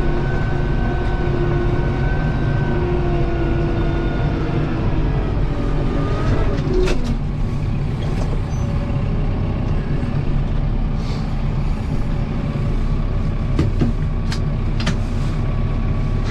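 Kubota M7060 tractor's diesel engine running steadily, with a wavering whine over it that stops with a click about seven seconds in; a few light clicks follow near the end.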